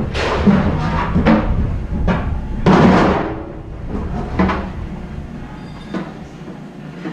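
Clanks and thuds of scrap aluminum being unloaded and tossed down, about eight knocks with some ringing. The loudest is about three seconds in, and they thin out and get quieter after that.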